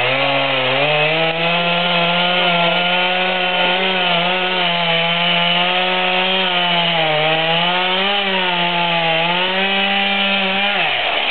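Chainsaw revving up and held at high throttle for about ten seconds, its pitch sagging briefly a couple of times, then dropping as the throttle is released near the end.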